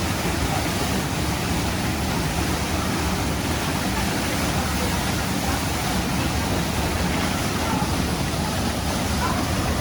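Waterfall: steady rushing, crashing water.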